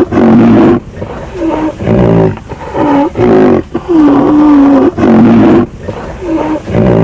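A large animal calling over and over: about eight loud, pitched calls in quick succession, each under a second, with one longer, steadier call near the middle.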